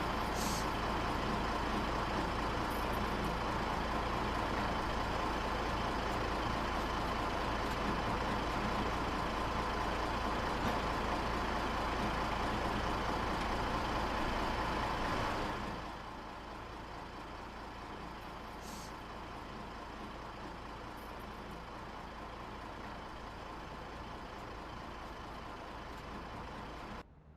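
Steady mechanical drone of a berthing cargo ship's machinery running, dropping clearly in level about halfway through and then cutting off abruptly near the end.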